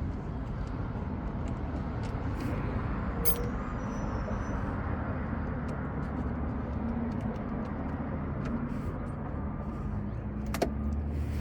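Steady low rumble of background noise with scattered small metallic clicks and knocks, a sharper one about three seconds in and another near the end: hand tools working loose the mounting bolts of a pickup's dashboard speaker.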